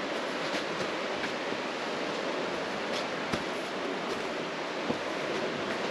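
Steady rush of river water running over rocks, with a few light knocks scattered through it.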